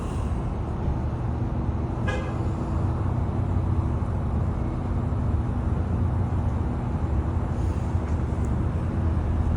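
Steady low rumble of road traffic or an engine, with a short horn toot about two seconds in.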